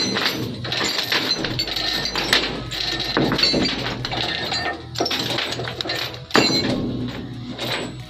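Metal clinking and clattering, with repeated knocks and one sharp, louder knock about six seconds in.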